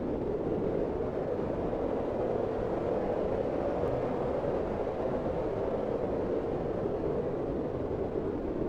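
Steady low rushing noise from a fireplace-and-winter-cabin ambience mix, with no distinct crackles or pops.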